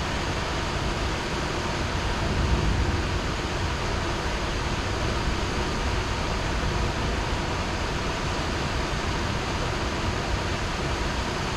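Heavy rain falling steadily, an even hiss with a deeper swell about two to three seconds in.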